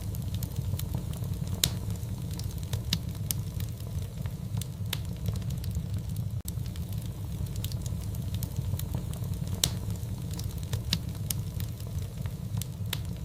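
Fireplace wood fire crackling, with irregular sharp pops and snaps over a steady low rumble.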